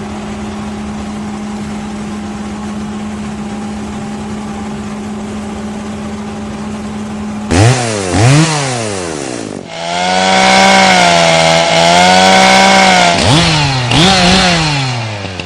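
Chainsaw engine running at a steady high speed, then revved up and down sharply a few times about halfway through. It holds a high, slightly wavering pitch for a few seconds, as under cutting load, and is revved again near the end.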